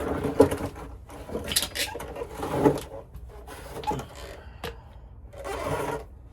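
Hand tools and metal parts being handled: an irregular series of knocks, clicks, scrapes and rustles.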